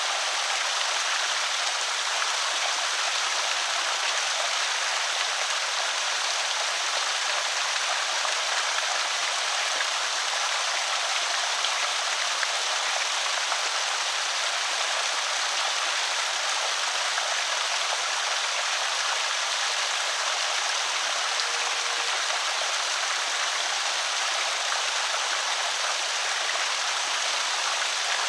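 Water pouring steadily over a small creek spillway, an even hiss-like rush strongest in the upper range.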